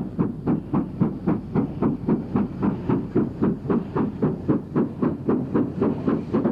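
Steam locomotive working steadily, its exhaust beats coming in an even, rapid rhythm of about four a second.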